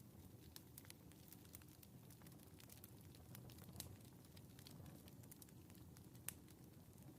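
Faint wood fire crackling in a fireplace: irregular small crackles and pops over a steady low rumble, with two louder pops about four and six seconds in.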